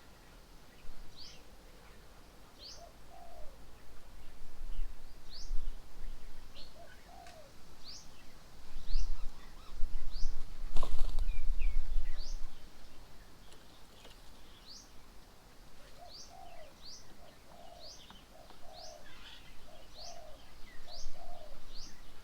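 Wild birds calling around a garden bird table: one bird repeats a short, high, upward-sweeping note about once a second, with short lower notes from another bird in between, most often in the last third. Near the middle, a low rumble lasting a couple of seconds and a single sharp knock stand out as the loudest sounds.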